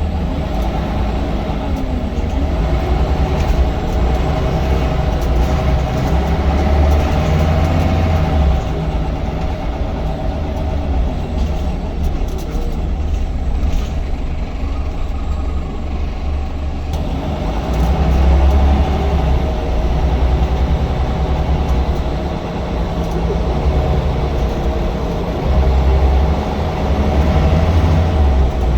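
Diesel engine of a Scania L94UB single-deck bus running, swelling and easing several times as the bus pulls and changes speed, with a deep rumble underneath.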